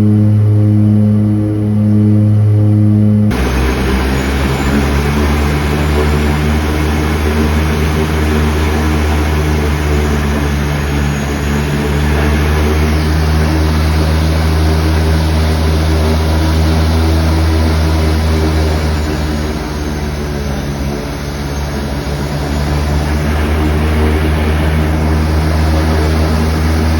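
Seaplane's propeller engines running steadily with a low drone and broad hiss. For the first three seconds the hum beats at a slow even pulse; then an abrupt cut switches to a louder, hissier, steady drone.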